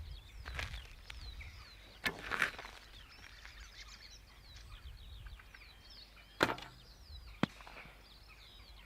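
Birds chirping and twittering, with three sharp knocks about two, six and a half and seven and a half seconds in.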